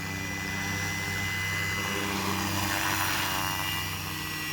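Scale radio-controlled Eurocopter EC135 model helicopter in flight: a steady whine and rotor hum that swell as it passes close, loudest about three seconds in, then ease off.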